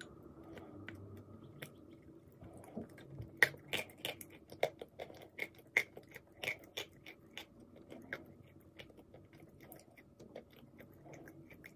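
Chewing a mouthful of clay paste: a run of sharp mouth clicks and smacks, thickest from about three to eight seconds in, then sparser.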